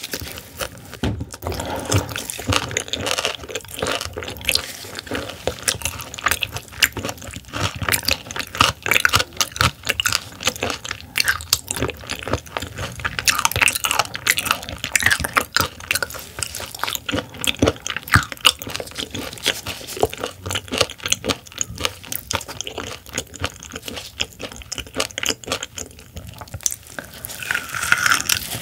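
Close-miked wet chewing and lip-smacking of raw silver pomfret sashimi, with many quick clicks and small crunches as the firm raw fish is bitten and chewed.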